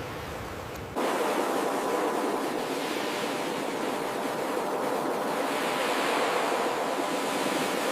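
Ocean surf, a steady wash of breaking waves. About a second in it jumps abruptly louder and brighter and loses its low rumble, the mark of a splice between two recordings.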